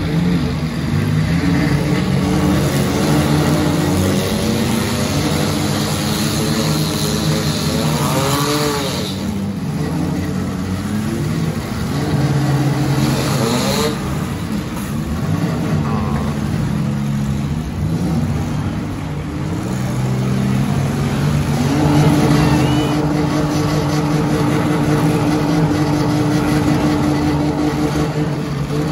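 Demolition derby car engines running and revving, several at once, the revs rising and falling in a couple of sharp bursts. In the last few seconds one engine holds a steady pitch.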